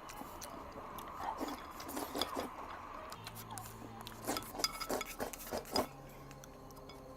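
Close-miked chewing and mouth sounds of someone eating rice mixed with braising sauce: a run of short wet clicks and smacks, thickest between about four and six seconds in.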